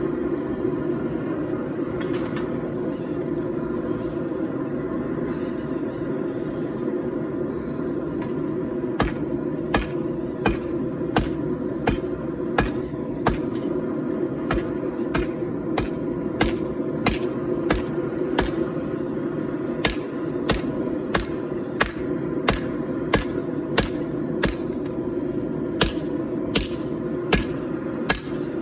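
Hand hammer striking hot 4140 steel on an anvil. After a couple of early blows, a regular run of ringing strikes begins about nine seconds in, roughly two a second. Under the blows is the steady rushing noise of the forge.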